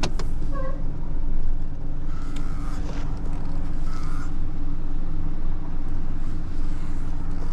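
A truck engine running at a steady speed, a low, even hum with a few faint clicks over it.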